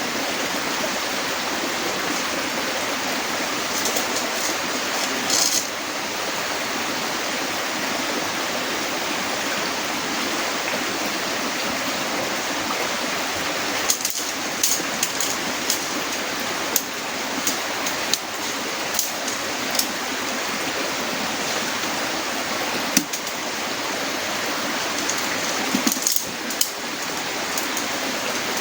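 Heavy rain falling steadily, an even hiss, with scattered sharp taps and knocks, a few about halfway through and more near the end.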